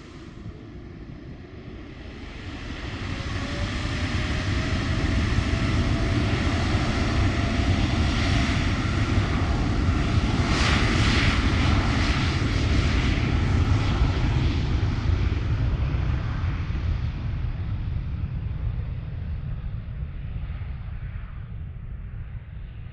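Widebody jet airliner taking off close by at takeoff thrust. The engine noise builds over a few seconds, peaks around halfway as the aircraft passes with a thin rising whistle in it, then slowly fades away.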